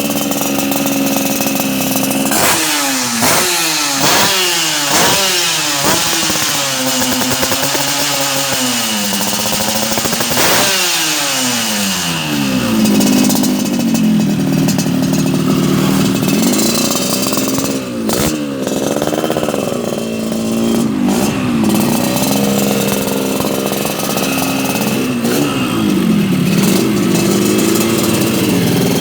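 Yamaha RX-King's two-stroke single-cylinder engine revved through a Thai-style standard exhaust: a run of quick throttle blips about once a second, each falling back in pitch, then longer revs swung up and down.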